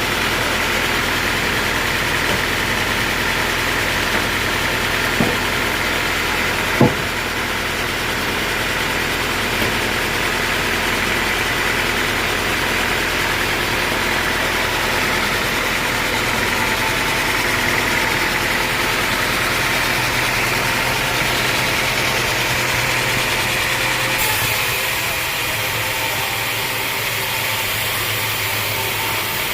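Sawmill machinery running steadily, like an engine at a constant speed. Two sharp knocks come about five and seven seconds in, and the sound shifts abruptly near the end.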